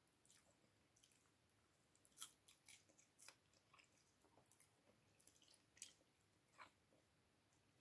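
Faint, irregular wet chewing and mouth clicks of a person eating chicken and rice with the fingers, with a few louder smacks.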